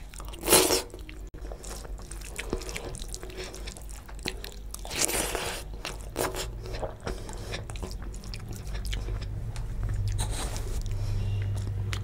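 Close-miked chewing and mouth sounds of a person eating rice and fish curry by hand: wet smacks and many short clicks, with two louder noisy bursts about half a second in and about five seconds in.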